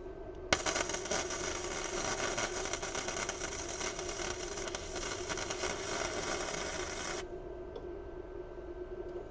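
Handheld rotary tool with a carbide burr grinding down steel welds. It starts abruptly about half a second in, runs steadily with a harsh rasp for nearly seven seconds, then cuts off.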